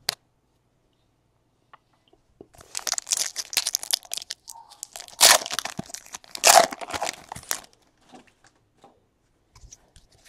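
A plastic-wrapped pack of trading cards being torn open, its wrapper crinkling and crackling for about five seconds, with two louder rips near the middle.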